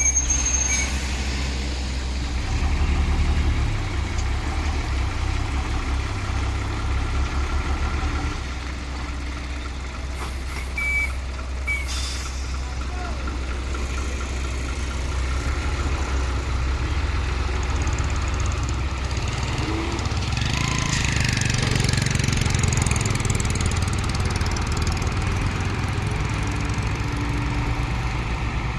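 Dump truck's diesel engine running with a steady deep rumble, with a louder, hissier stretch about twenty seconds in.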